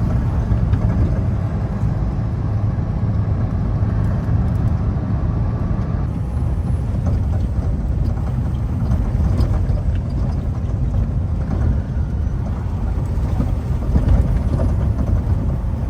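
Semi truck driving, heard from inside the cab: a steady low rumble of engine and road noise.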